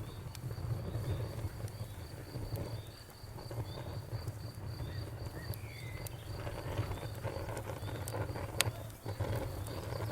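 Wood fire burning with a low rumble and scattered crackles, including one sharp pop about eight and a half seconds in. Over it an insect chirps faintly and evenly, about four chirps a second, stopping near the end.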